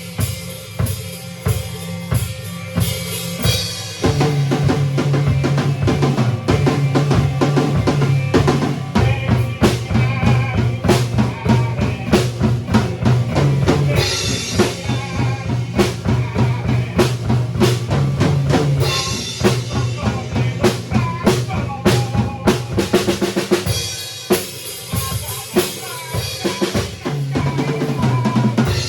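A band playing an instrumental passage: drum kit with kick, snare and rimshots over a steady bass line, filling out into a fuller section about four seconds in and thinning again near the end.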